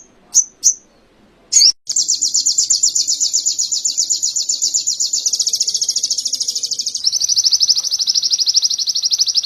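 A sogon (spiderhunter) singing canary-style song: a few sharp high chirps, then a long, fast, high trill that shifts to a slightly lower, denser trill about seven seconds in.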